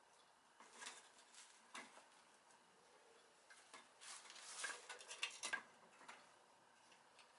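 Faint clicks and rustles of small hard objects being handled, a few scattered ones and then a denser run about four to five and a half seconds in.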